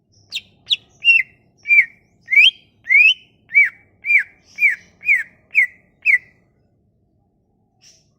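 Cucak ijo (green leafbird) singing a run of about a dozen loud, clear whistled notes, roughly two a second, some sliding up and most sliding down. The run stops about six seconds in, and one faint note follows near the end.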